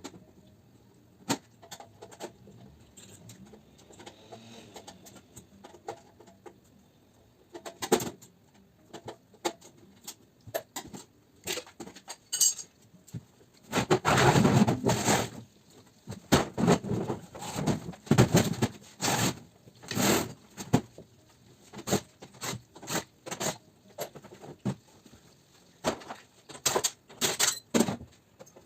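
Metal parts of a ducted air conditioner unit being dismantled for scrap: irregular knocks, clanks and rattling, with a denser, louder stretch of clatter about halfway through.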